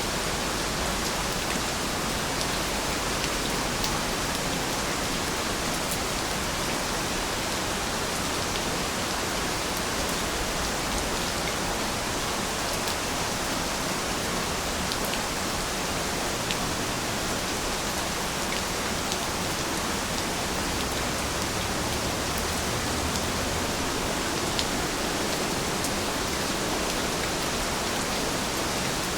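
Steady rain falling: an even, unbroken hiss of rain, with now and then a single drop ticking out clearly.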